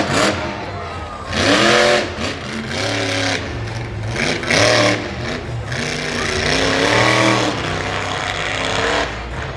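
Monster truck engine revving hard several times, its pitch climbing and dropping with each throttle blip, with two loud surges of engine noise about two and five seconds in.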